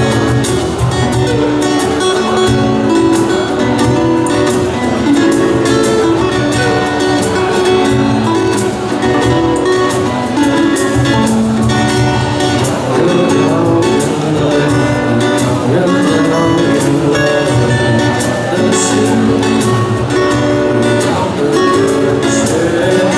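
Live band playing a rock song on guitars and drums.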